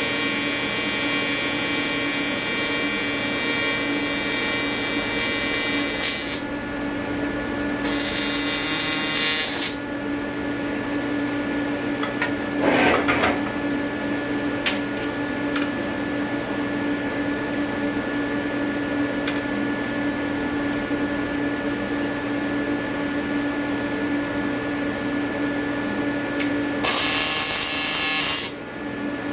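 AC square-wave TIG welding arc from an Everlast 325EXT buzzing steadily, with the buzz growing louder and harsher for the first few seconds, briefly around eight seconds in, and again shortly before the end.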